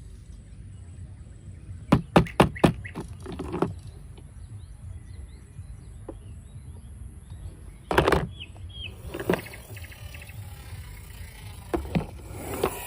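A series of sharp clacks and knocks of hard objects. A quick run of four comes about two seconds in and single ones follow later, over a steady low rumble. Faint bird chirps come through in between.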